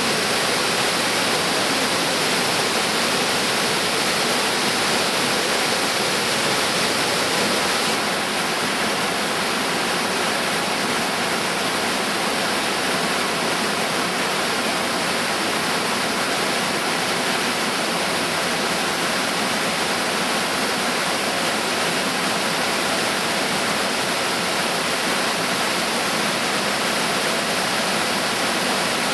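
Yudaki waterfall's water rushing down its rock face: a loud, steady rush of falling water, dipping slightly in level about eight seconds in.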